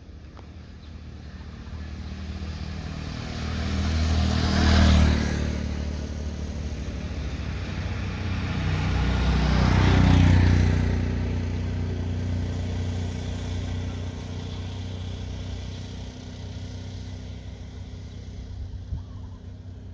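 Two motor vehicles passing one after the other, their engine noise swelling and fading: the first is loudest about five seconds in, the second about ten seconds in, with a low engine hum lingering between and after.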